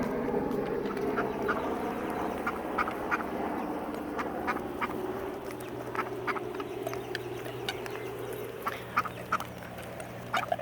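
Ducks quacking in many short, scattered calls, over a faint steady low hum.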